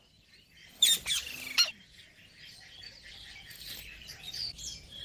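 Pet green parrot calling: a few loud, short screeches about a second in, then softer, steady high chattering.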